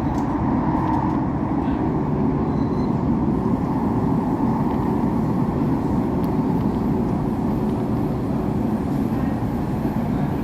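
Steady rumble of an Elizabeth line Class 345 electric train running between stations, heard inside the carriage: wheels on rail and running gear, with no breaks.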